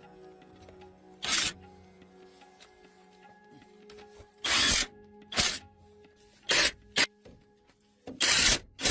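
Steady background music, broken by about seven short, sharp bursts of workshop power-tool noise at irregular intervals, each lasting well under a second.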